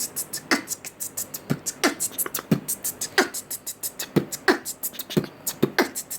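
Beatbox rhythm of mouth-made percussion: a low pop about twice a second with quick high clicks in between.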